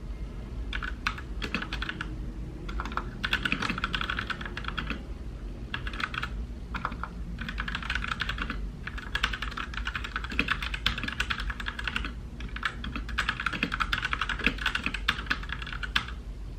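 Mechanical keyboard typing in quick runs of keystrokes, broken by short pauses of under a second, over a steady low hum.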